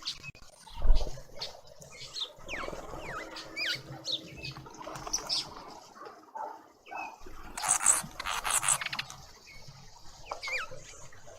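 A small animal's high-pitched squeaks and chirps, short and repeated, with a louder stretch of squealing about eight seconds in. A thump about a second in.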